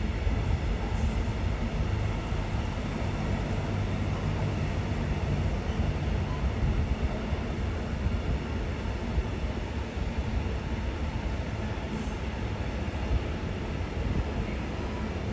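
Train running through a railway station: a steady, fairly loud rolling noise of wheels and running gear, heaviest in the low end, with a faint steady hum from the traction equipment.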